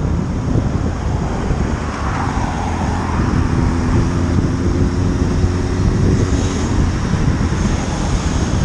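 Heavy wind rush on the microphone of a moving motorcycle, over road and engine noise.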